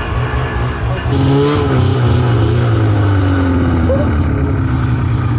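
Snowmobile engine running steadily while riding. About a second in it gets a little louder and its pitch eases down, then holds steady.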